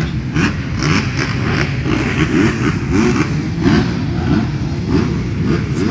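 Several motocross dirt bike engines revving up and down at once, overlapping, with the pitch rising and falling again and again as riders work the throttle around the track.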